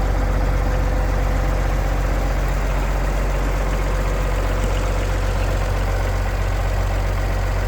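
1966 Oliver 1650 tractor's six-cylinder diesel engine running steadily, its speed unchanged.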